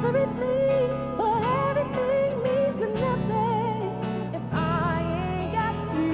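A woman singing live with vibrato, long held notes rising and falling, over steady chordal accompaniment from a small band.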